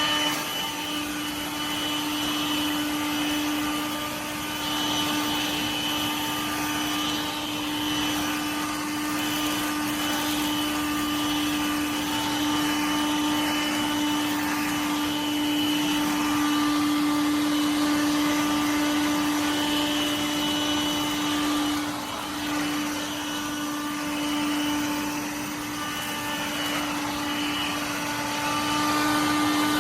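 Dirt Devil Vibe corded stick vacuum switched on and running, a steady motor hum over a rush of air, with a few small dips in level as it works.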